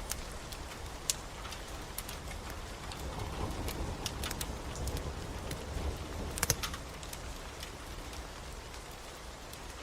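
Steady rain with the sharp crackles and pops of a wood fire scattered through it, a quick cluster of louder pops about six and a half seconds in.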